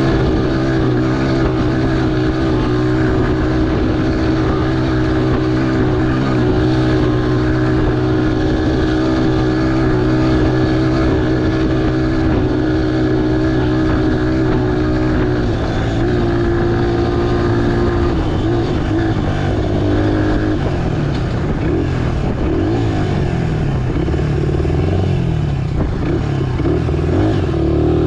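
Honda XR100R dirt bike's small single-cylinder four-stroke engine running under way at a steady speed, its pitch dropping about halfway through. In the last third it revs up and down repeatedly.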